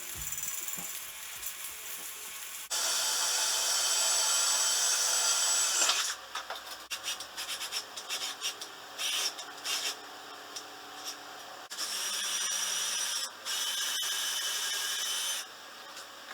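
A handheld power tool with a high whine runs in three bursts of a few seconds each, with scraping and rubbing between the bursts.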